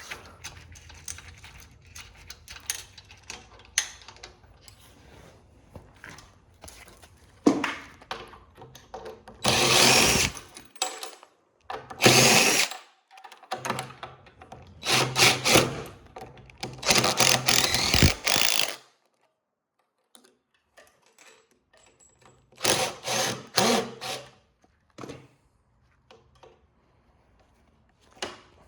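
A power drill/driver running in about five short bursts of a second or two each, driving fasteners out of printer parts. Small clicks of metal parts being handled come in between.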